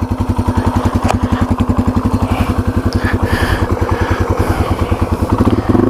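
Yamaha TW200's single-cylinder four-stroke engine running at a steady, low speed while riding, its exhaust pulses evenly spaced.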